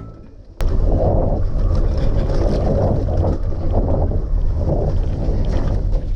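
Motorcycle engine running while riding, mixed with wind rushing over the microphone; it cuts in suddenly about half a second in after a brief quiet moment.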